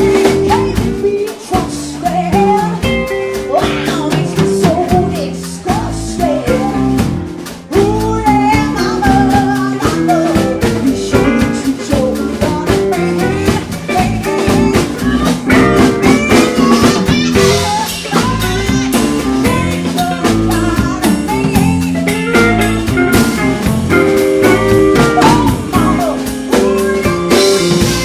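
Live blues band playing, with electric guitar and a drum kit.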